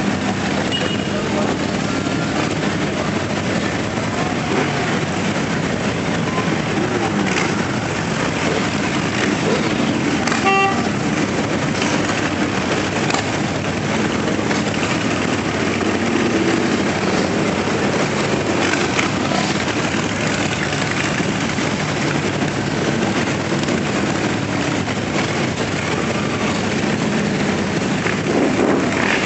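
A procession of motorcycles riding past with a steady, continuous engine noise, and a short horn toot about ten seconds in.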